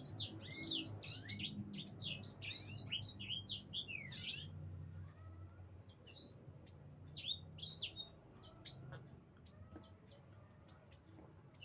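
Small birds chirping and twittering, a dense run of quick chirps for the first four seconds or so, then scattered single chirps.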